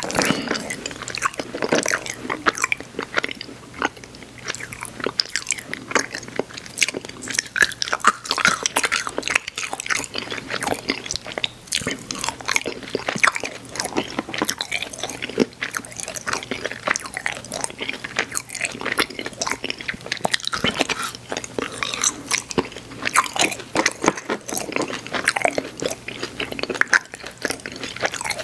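Close-up mouth sounds of chewing soft, chewy sour candy: a steady run of wet smacks and clicks, with no words.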